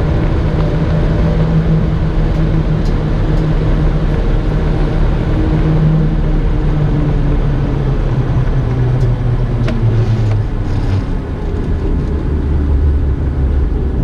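Car driving along a road: the engine runs steadily over road noise, and its note drops about ten seconds in and again near the end.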